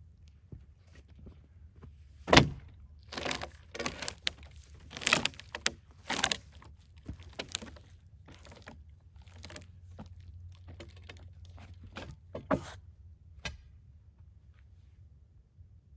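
Irregular knocks, clunks and short scraping clatters from splitting cedar rails with wedges, a maul and a pry bar. The loudest is a single sharp knock about two and a half seconds in; a run of scrapes and knocks follows, then a few lighter knocks.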